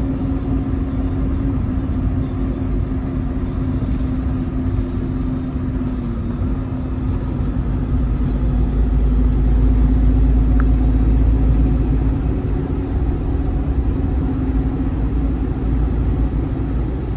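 Semi-truck engine running: a steady drone over a heavy low rumble that grows louder around the middle and then eases off.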